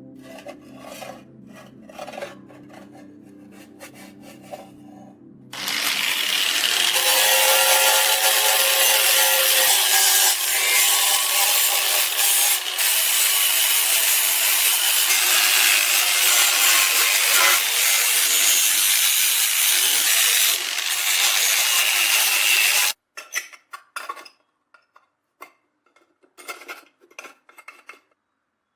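Steel knife being worked with an abrasive: a loud, continuous rubbing scrape that cuts in about five seconds in and stops abruptly after about seventeen seconds. Scattered light scrapes and clicks follow.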